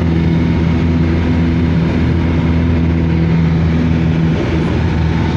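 Steady vehicle engine drone with an even low hum. One of its hum tones drops out about four seconds in.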